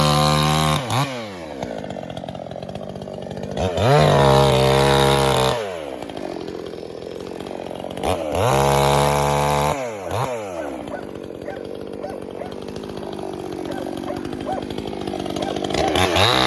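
Two-stroke gas chainsaw revved to full throttle and let fall back to idle four times. Each burst lasts one to two seconds, and the engine idles in between.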